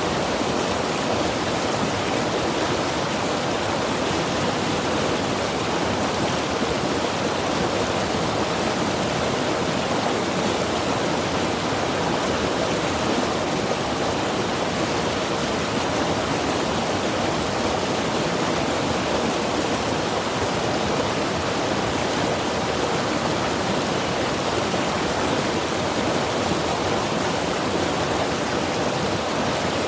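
Mountain river rushing steadily over rocks, a continuous even wash of water with no breaks.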